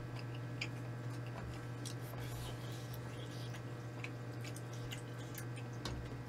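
A person chewing food close to the microphone: soft wet squishes and small scattered mouth clicks, over a steady low hum.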